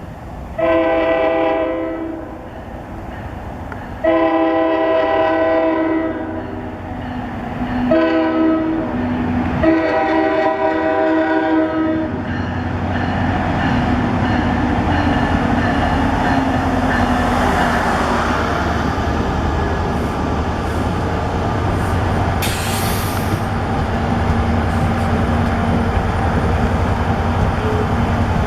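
Locomotive air horn sounding the grade-crossing signal: two long blasts, a short one, then a long one. The train then passes with a steady rumble of engine and wheels on the rails.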